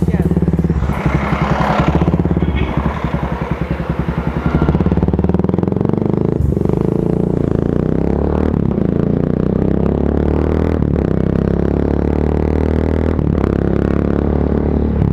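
Yamaha FZ25's single-cylinder engine running under way in fifth gear. The level dips briefly about three to four seconds in, then holds steady.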